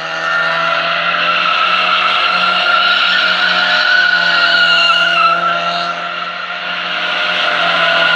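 Car tyres squealing through a sustained drift, over a steady engine note, with a brief dip in loudness late on.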